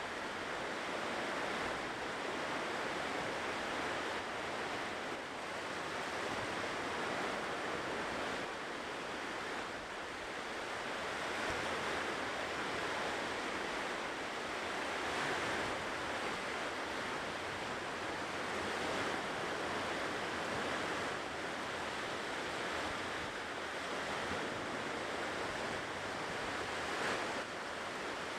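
Ocean waves breaking and washing on a shore: a continuous surf wash that swells and eases slowly.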